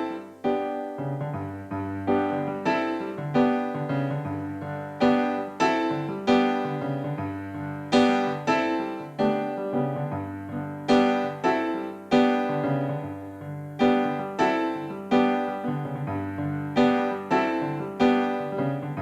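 Solo keyboard with a piano sound, playing an improvised piece: chords struck about once or twice a second, each dying away, over sustained bass notes.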